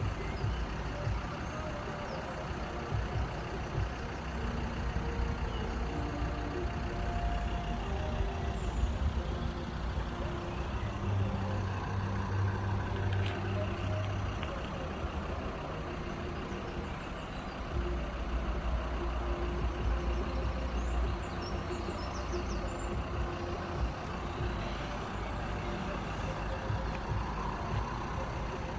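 Steady low engine rumble of heavy vehicles idling, with the hum swelling twice and no sharp events.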